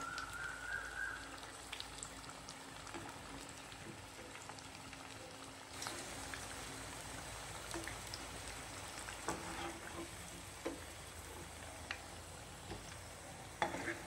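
Battered bitter gourd rounds stuffed with minced beef and potato sizzling steadily in shallow oil in a frying pan, with scattered small pops. A metal slotted spoon knocks lightly against the pan a few times, most clearly near the end.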